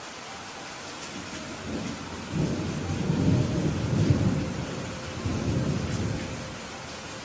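Steady rain falling with a roll of thunder: a deep rumble builds about two seconds in, peaks in the middle with a second swell, and dies away near the end.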